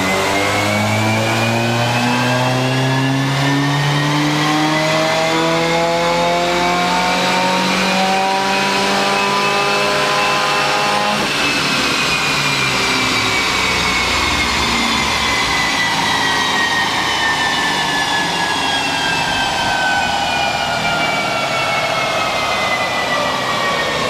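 2016 Subaru WRX's turbocharged 2.0-litre flat-four, fitted with an 850 Fabrications exhaust manifold, making a dyno pull: revs climb smoothly for about eleven seconds, then the throttle closes and the engine winds steadily back down.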